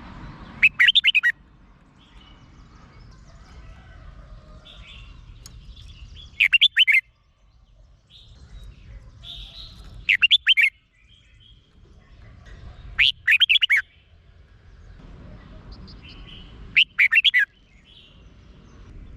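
Red-whiskered bulbul singing: five short, loud warbled phrases, each under a second long, spaced about three to four seconds apart, with fainter chirps between them.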